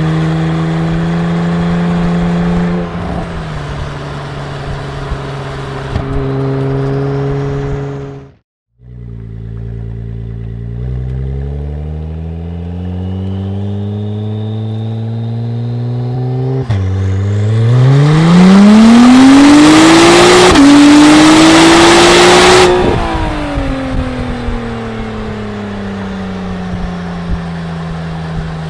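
Honda NSX V6 running through a 3-inch all-titanium exhaust. It runs steadily and breaks off briefly about a third of the way in. It then climbs slowly in pitch, pulls hard and loud with a rising pitch and one short step partway through, and falls back to a steady drone after the throttle is lifted.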